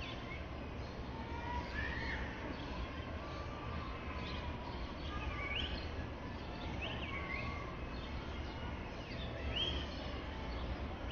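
Scattered short bird chirps and whistled calls, each a quick rising or falling note, over a hushed open-air murmur and a low steady hum.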